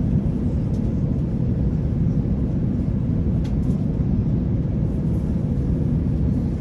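Steady airliner cabin noise in cruise: a constant low rumble and rush of engine and airflow noise, with a faint steady hum and a couple of small clicks.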